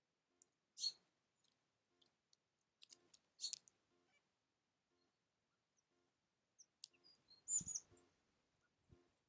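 Small songbirds at a feeder giving short, high chirping calls three times, the loudest near the end, over near silence, with a soft low thump at the same moment as the last call.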